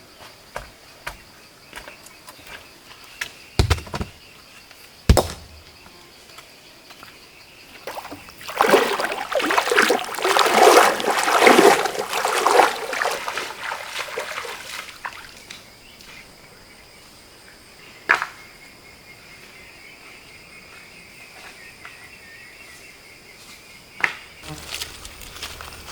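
Water splashing and sloshing in a stream for several seconds in the middle, with a few sharp knocks of stones striking each other before and after. Insects buzz steadily throughout.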